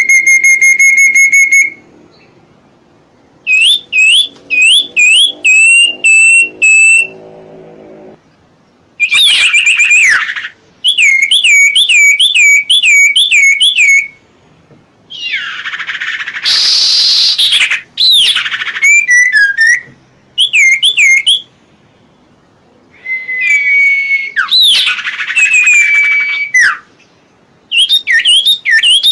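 A songbird singing loud, clear whistled phrases separated by short pauses: a held steady whistle at the start, runs of quick up-and-down looping notes, and one harsh rasping call about halfway through.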